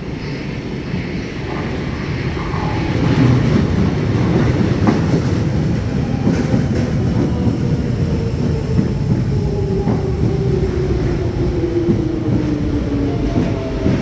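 Jubilee line 1996 Stock underground train pulling in: wheels rumble and clatter over the rails, louder from about three seconds in. In the second half a whine falls steadily in pitch as the train brakes.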